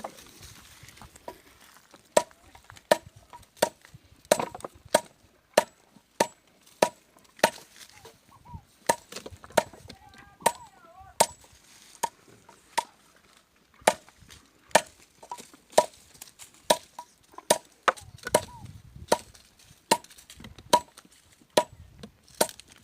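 Heifer calves chewing sugarcane stalks: a run of sharp, crisp cracks, about one to two a second, as the fibrous cane splits between their teeth.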